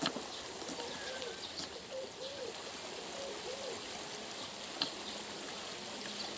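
A dove cooing: a run of short notes, each rising and falling in pitch, from about a second in to past the middle. Under it is a steady hiss like running water, with a sharp click at the start and another near the end.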